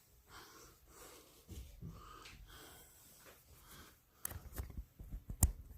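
Faint rustling and handling noise, then several sharp clicks and knocks in quick succession from about four seconds in. The loudest knock comes near the end.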